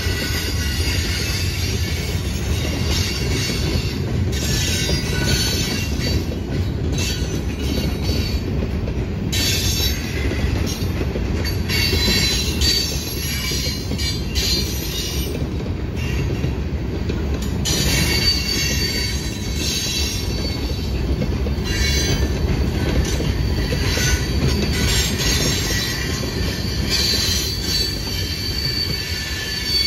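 Freight cars rolling past: a steady rumble of steel wheels on rail, with high, thin wheel squeal rising and fading several times as the boxcars and tank cars go by.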